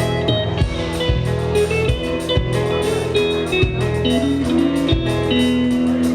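Live band playing an instrumental passage: a guitar holding and bending sustained notes over bass and drums keeping a steady beat.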